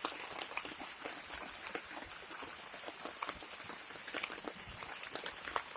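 Steady rain falling, with many separate drops striking close by at irregular moments.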